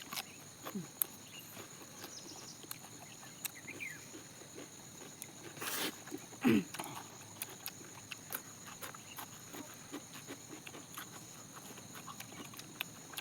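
Close-up mouth sounds of eating chicken: wet chewing and lip smacking, heard as many small clicks. A louder noisy burst comes about six seconds in, followed by a short low grunt-like sound.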